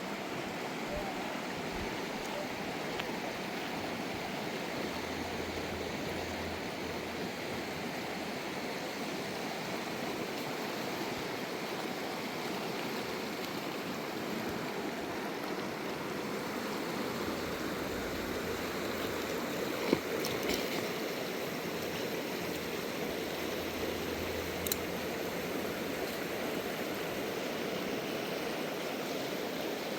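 Steady rush of a river's flowing water, with a sharp click about two-thirds of the way through and a fainter one a few seconds later.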